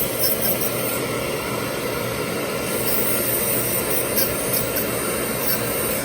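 Dental laboratory handpiece running steadily while contouring a metal-ceramic restoration, with a few faint scratchy ticks as the bur touches the work.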